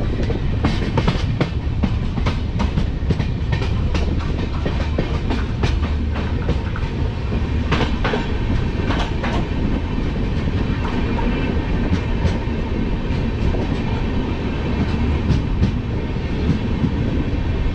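Passenger train coach running on the track, heard from outside its side: a steady rumble with irregular clicks and clacks of the wheels over the rail joints.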